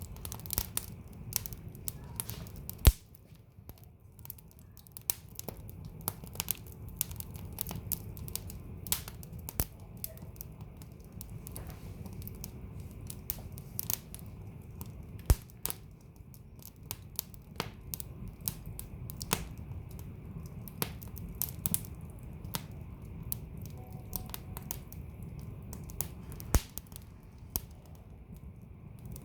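Wood fire burning in a fireplace: irregular crackles and sharp pops from the burning logs over a steady low rumble of the flames, with a few louder pops, about 3, 15 and 26 seconds in.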